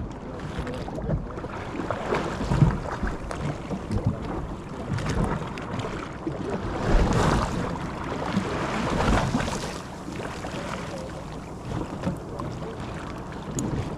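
Wind gusting across the microphone over the sound of a sea-fishing boat and the water around it, swelling and easing unevenly.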